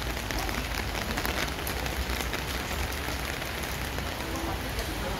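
Steady rain falling, an even hiss of drops with many small taps.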